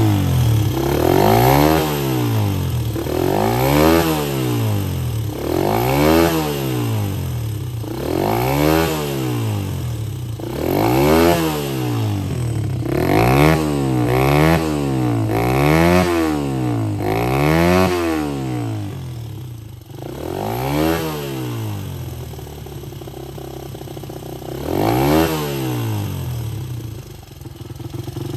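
Honda Ape 50 minibike fitted with a 100cc single-cylinder four-stroke engine, running and being blipped about a dozen times: each rev is a quick rise and fall in pitch that drops back to idle, with a longer spell of idling before the last rev near the end.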